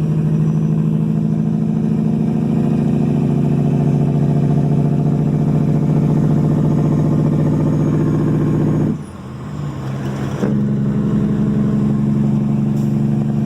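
Caterpillar 3406E 550 hp diesel in a Kenworth W900 pulling steadily under load, loud through 8-inch straight-pipe duals with no mufflers. About nine seconds in the engine eases off briefly, then pulls again.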